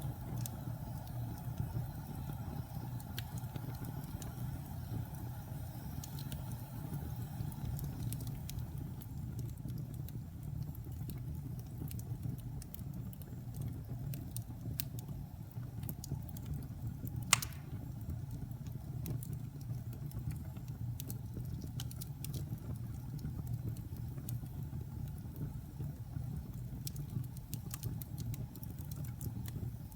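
Wood fire burning in a fireplace: a steady low rumble of flames with scattered small crackles, and one loud sharp pop about seventeen seconds in.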